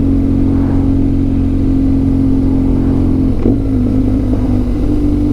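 A vehicle engine running steadily on the move, with a constant drone. About three and a half seconds in, its pitch wavers and drops a little, then climbs back.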